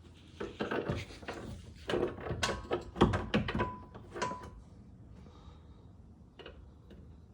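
A run of knocks and clatter from tools and parts being handled and set down, with two short metallic rings near the end. Then it settles to low room noise, with one more small knock later.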